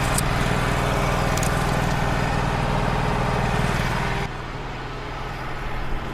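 Wood-Mizer LT35 sawmill's engine running steadily, with an added hissing, rushing layer over it that stops abruptly about four seconds in, leaving the engine running more quietly.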